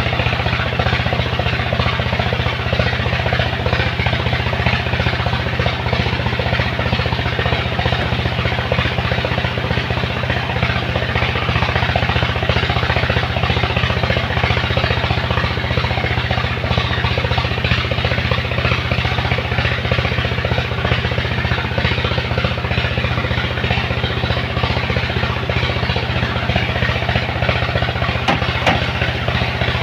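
Large truck diesel engine running steadily, with an even, fast-pulsing clatter.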